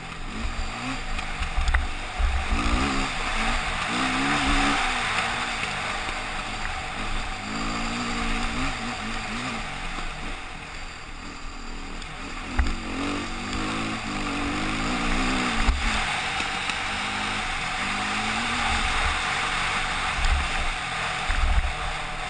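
KTM motorcycle engine under way, the revs climbing and dropping again every few seconds as the rider works the throttle and gears, with wind rushing over the microphone.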